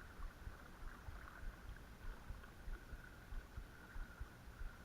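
Creek water rushing steadily, with low, irregular wind buffeting on the microphone.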